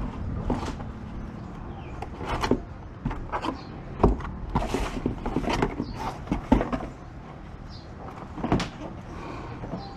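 Hands unpacking a motorcycle helmet: irregular rustling of packaging, with knocks and clicks of handling.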